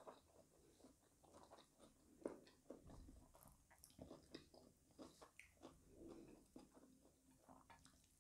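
Faint chewing and mouth sounds of a person eating fried tofu and tempeh with rice, with irregular small clicks and crackles as fingers pick food from a plate.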